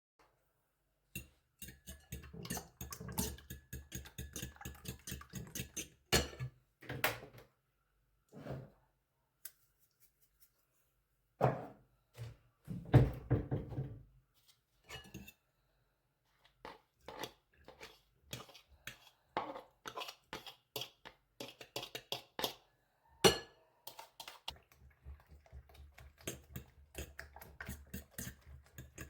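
Kitchen work: dishes, pots and utensils knocking and clinking irregularly, with a few louder knocks among many light clicks.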